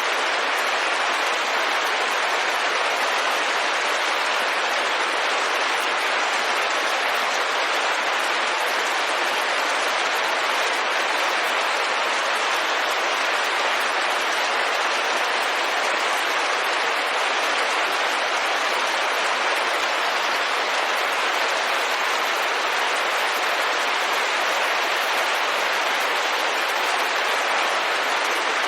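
Steady rain falling on a window, an even hiss of drops with no breaks or changes in level.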